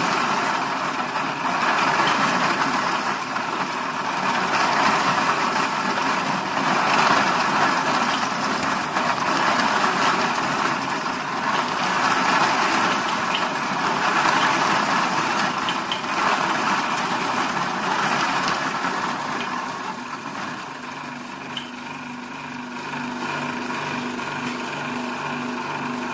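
Small electric garlic peeling machine running: a motor hum under a dense rushing noise that swells and eases every few seconds, settling near the end into a quieter, evenly pulsing hum.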